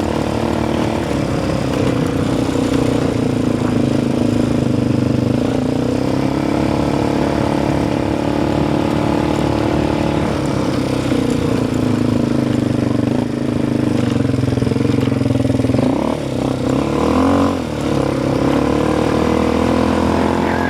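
A motor vehicle's engine running at steady revs, its pitch drifting slowly, with a brief drop and rise in revs about sixteen seconds in.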